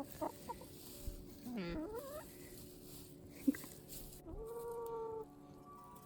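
Animal calls: a pitched cry that dips and rises about a second and a half in, and a longer held call a little past the middle, over faint steady background tones.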